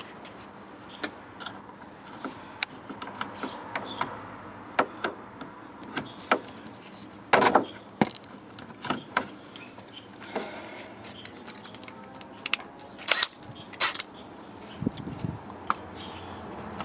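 Scattered, irregular clicks and knocks of tools and parts being handled during cylinder head work, with the sharpest knocks about seven seconds in and again near thirteen seconds.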